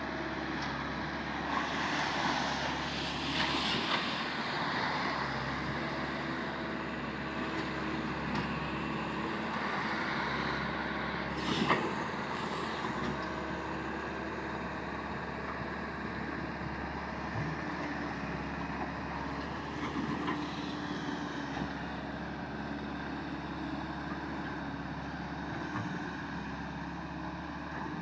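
Swamp excavator's diesel engine running steadily, with a single sharp knock about twelve seconds in.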